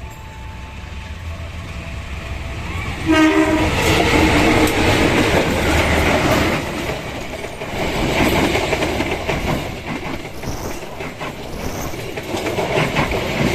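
Passenger train blowing its horn as it reaches the level crossing, about three seconds in. It then passes close by with a loud rumble and wheels clattering over the rail joints.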